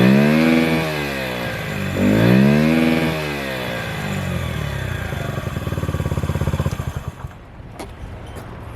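Honda Ape 50 fuel-injected single-cylinder four-stroke engine through a BEAMS aftermarket muffler, blipped twice with the revs rising and falling each time, then running steadily at low revs. About seven seconds in the engine sound drops away sharply, leaving a few light clicks.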